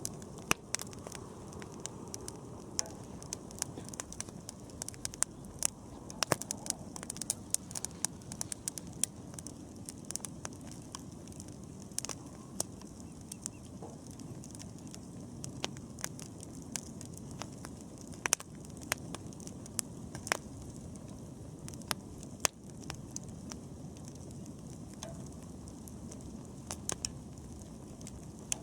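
Wood bonfire burning: a steady low rush of flames with irregular sharp crackles and pops from the burning wood, several a second at times.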